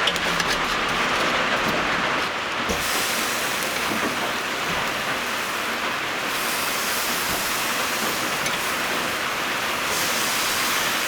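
Steady rain falling, an even hiss, its tone shifting a little about three and six seconds in.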